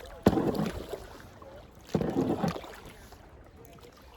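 Canoe paddle strokes in the water, two of them about a second and a half apart, each starting sharply and fading out with a short splash.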